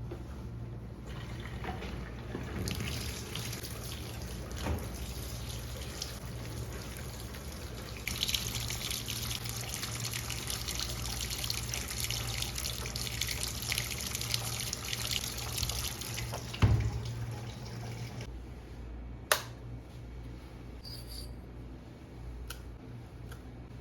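Water running from a tap into a sink. It turns stronger about eight seconds in and stops abruptly about two thirds of the way through, with a thump shortly before it stops and a sharp click after.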